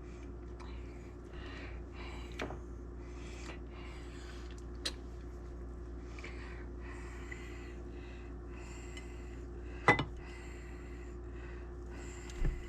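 Steady low room hum with a few light clicks and knocks of handling in a kitchen, the loudest about ten seconds in.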